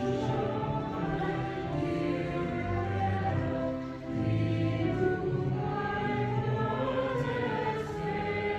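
A church choir singing a sung Christmas piece, with held notes and a sustained low accompaniment beneath the voices.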